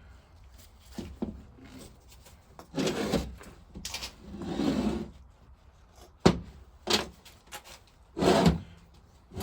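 Parts being handled on a workbench while a vaporiser is stripped down: a couple of scraping rubs, then several sharp knocks and clunks as pieces are moved and set down.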